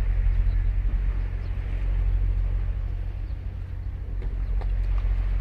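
Ocean surf breaking and washing on a sandy beach, swelling and easing slowly over a steady low rumble.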